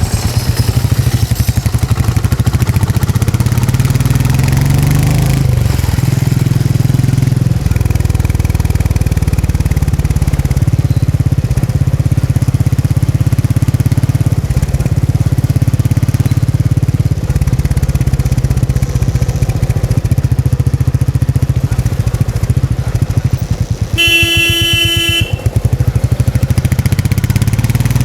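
Royal Enfield Meteor 350's single-cylinder engine and exhaust thumping along under way, the revs climbing a couple of times as it pulls. About 24 seconds in, a vehicle horn blares for just over a second.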